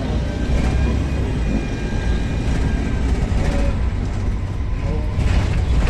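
Volvo B7RLE bus's six-cylinder turbodiesel engine running under load as a steady low drone, with a faint high turbo whistle over it, and a brief rattle near the end.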